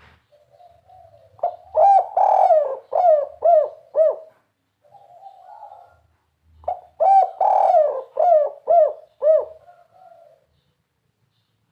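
Spotted dove (tekukur) cooing its 'kuk 3' song: two phrases, each a soft, low lead-in followed by a quick run of about six loud coos.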